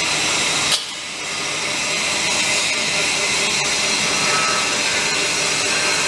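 TDF flange forming machine running steadily with a loud, hissing mechanical noise. There is a sharp click about a second in, after which the sound drops for a moment and then builds back up.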